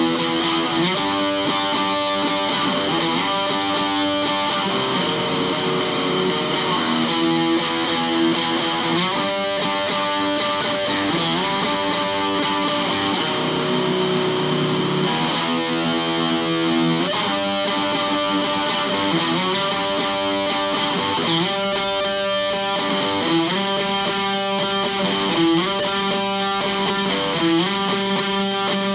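Electric guitar playing an improvised instrumental: sustained chords changing every second or two, with pitches sliding from one chord to the next.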